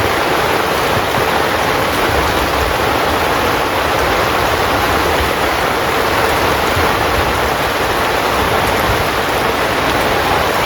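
Heavy rain drumming steadily on a tent's fabric, an even, unbroken hiss.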